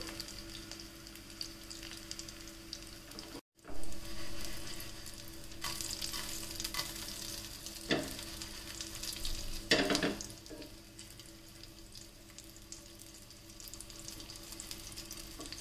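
Dhekhra patties shallow-frying in a little oil in a nonstick pan, a steady sizzle that cuts out for a moment about three seconds in. A few short knocks and scrapes come through, from a wooden spatula turning the patties.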